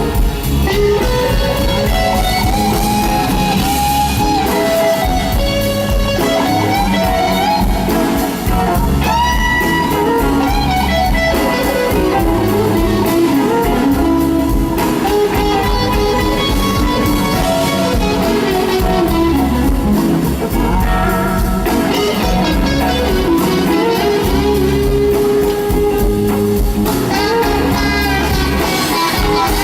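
Live band playing a slow blues instrumental section: an electric guitar carries a lead line with bending, gliding notes over bass and drums.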